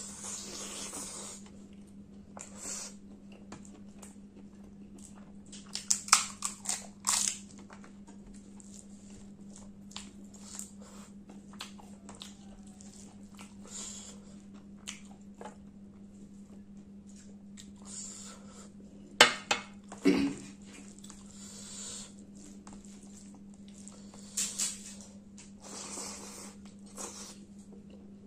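Close-miked eating of rice and chicken curry by hand: chewing with scattered sharp wet smacks and clicks, the loudest a few around six to seven seconds in and again around nineteen to twenty seconds in. A steady low hum runs underneath.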